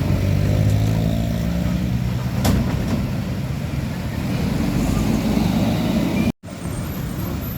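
Heavy truck's diesel engine running loudly on the road. About six and a half seconds in it cuts off sharply for a moment and a slightly quieter engine-and-road sound takes over.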